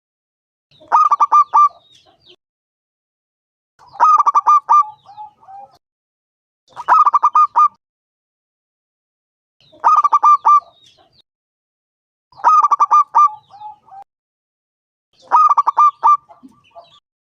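Zebra dove (perkutut) singing its cooing song: six bouts about every three seconds, each a quick run of staccato coos that ends in a few softer trailing notes.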